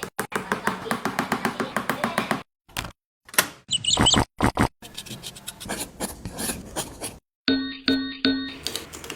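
A fast run of sharp clicks and taps, then scattered clicks with a brief high chirp, and three short pitched dings in quick succession near the end.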